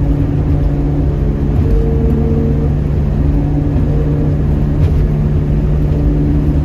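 1972 Ford Mustang Mach 1 cruising at highway speed, heard from inside the cabin: a steady engine drone and road hum.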